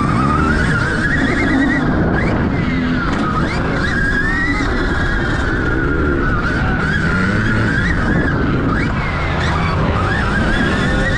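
Stark Varg electric motocross bike's motor whining, its pitch rising and falling with the throttle, over a dense rumble of wind and dirt-track riding noise.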